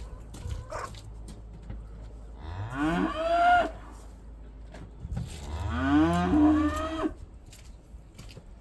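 Cow mooing twice: two long calls, each rising in pitch and then holding, with a short gap between them.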